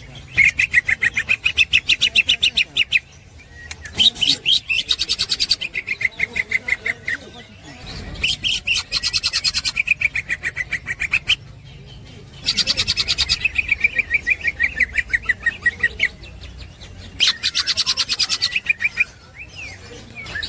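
A green leafbird (cucak ijo) singing in its rapid chattering 'ngekek' style. It gives about five bursts of fast repeated high notes, each two to three seconds long with short gaps between, and some bursts fall in pitch at the end.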